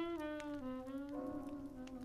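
Slow 1940s jazz played on records: a solo wind instrument carries the melody in sustained, gliding notes over a soft backing. Faint clicks of a crackling fireplace sound under the music.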